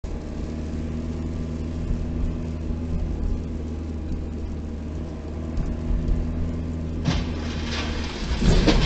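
A car running steadily, a low hum with a constant drone. About seven seconds in a louder, noisier sound comes in, and near the end there is a loud burst of sudden noise.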